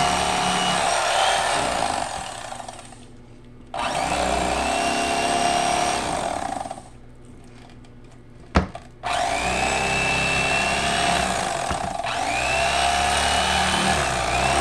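Mister Twister Piranha electric fillet knife running as it cuts the skin off a catfish fillet, its pitch shifting as the blade takes load. It runs in three spells, stopping about three seconds in and again about seven seconds in, with a single sharp knock about eight and a half seconds in.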